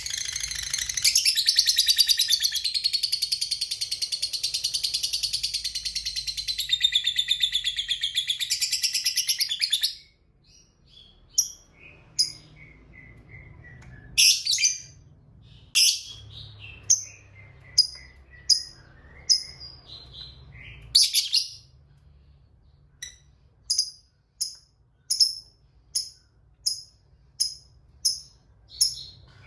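Lovebird giving its long 'ngekek' chatter, a fast, high, unbroken trill for about ten seconds that cuts off suddenly. Then come scattered sharp chirps and short falling runs of notes, settling near the end into a regular string of single chirps, about one and a half a second.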